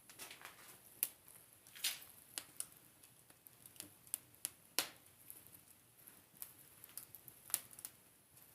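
Wood fire burning in a fireplace, crackling with irregular sharp pops over a faint hiss, several louder snaps among them.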